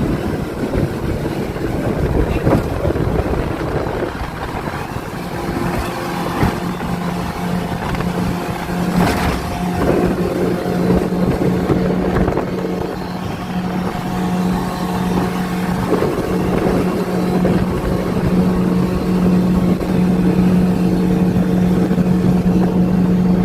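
Outboard motor of a fishing launch running steadily at speed, with water and wind noise; the engine's steady hum becomes stronger about a quarter of the way in.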